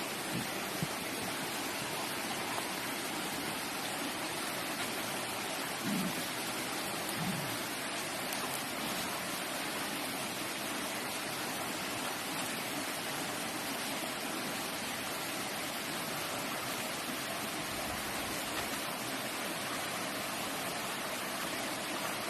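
Steady hiss of rushing water throughout, with two soft knocks about six and seven seconds in.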